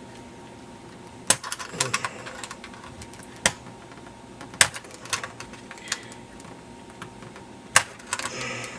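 Irregular sharp metallic clicks and taps of a hand tool working at the speed nut on a radio's battery-holder mounting, about ten in all, a few tenths of a second to over a second apart.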